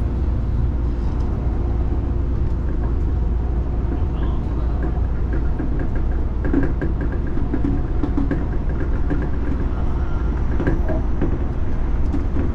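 Seibu Shinjuku Line commuter train running on the track: a steady low rumble of wheels and car body, with a few faint clicks and squeals about halfway through.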